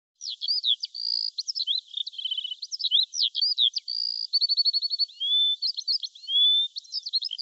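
Songbird song: a quick, varied run of short sweeping notes, held whistles and fast repeated trills, starting just after a moment of silence.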